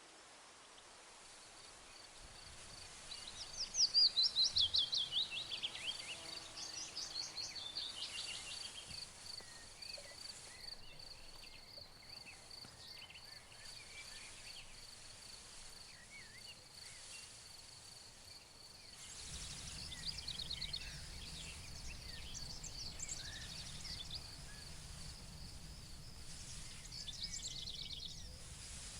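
Meadow ambience: songbirds singing fast descending trills, loudest about four seconds in and again past the middle and near the end, over a continuous high, pulsing insect trill. A low, steady rustling noise comes in a little past the middle.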